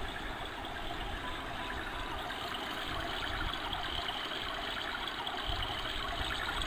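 Small motor of a battery-powered toy kitchen appliance running with a steady whirr and a watery trickling sound.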